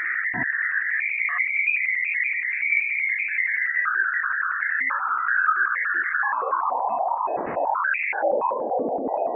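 Sonification of radio waves from Ganymede's magnetosphere, recorded by the Juno spacecraft's Waves instrument and shifted into the audible range: an electronic-sounding, rapidly pulsing band. From about six seconds in it slides down in pitch into a lower, rougher noise.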